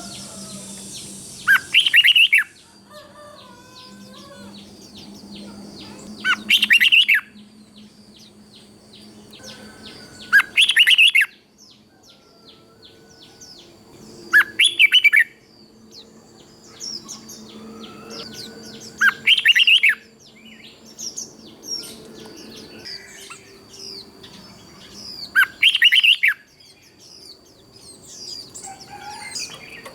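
Red-whiskered bulbul singing: six loud, short whistled phrases about four seconds apart, with softer chirps between them.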